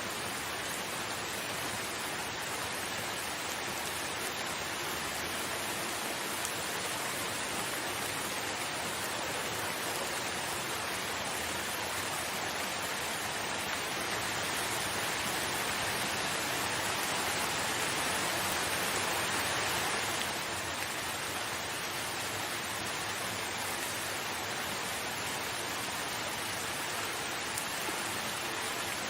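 Steady hiss of heavy rain falling, growing somewhat louder through the middle and then dropping back abruptly about twenty seconds in.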